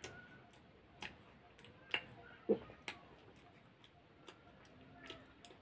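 Mouth sounds of someone chewing food: irregular wet clicks and lip smacks, with a louder, lower smack or swallow about two and a half seconds in.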